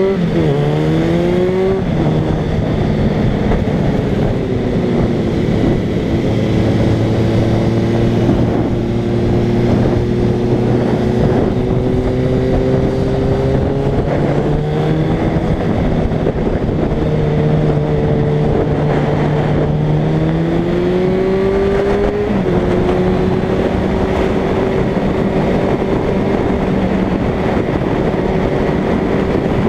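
A Suzuki Bandit's inline-four engine heard from the rider's seat while riding. Its pitch climbs and falls back at gear changes, about two seconds in and again around fifteen and twenty-two seconds, holding steady in between. Wind rushes over the microphone throughout.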